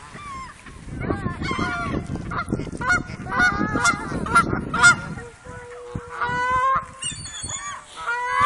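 A flock of geese honking, many short calls overlapping one another, with wind rumbling on the microphone through the first half.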